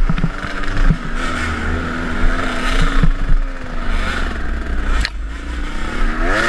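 KTM enduro dirt bike engine running on a trail ride, its pitch rising and falling with the throttle near the end, with scattered knocks and clatter from the bike over rough ground.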